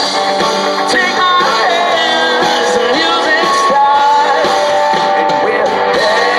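Live country-rock band playing amplified music, with singing over guitar.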